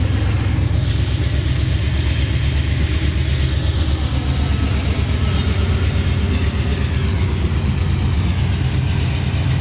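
A train going by, heard as a steady, loud low sound that does not let up.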